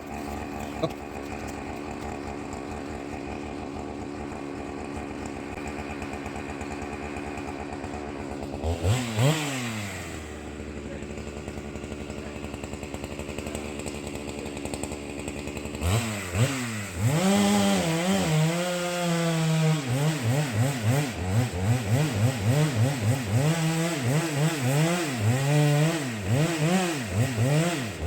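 A gasoline chainsaw idling, briefly revved about nine seconds in. From about sixteen seconds it is revved up and down again and again as it cuts into a large pine trunk.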